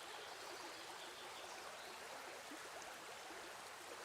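Faint, steady hiss with fine crackle, like distant running water, running as a background bed under the tutorial; no speech.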